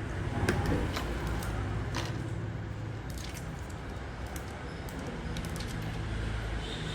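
Scattered small clicks and taps, most likely repair tools working on an iPhone during a battery replacement, over a steady low hum of road traffic.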